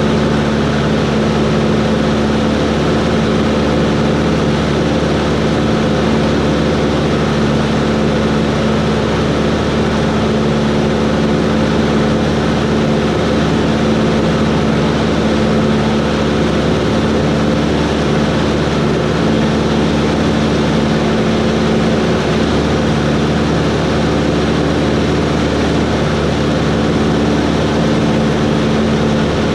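Cessna 140's piston engine and propeller running at a steady, unchanging drone.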